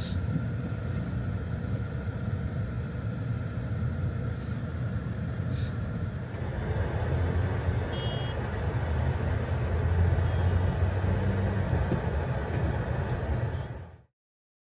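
Steady low rumble of road vehicles, swelling a little past the middle, then cutting off abruptly near the end.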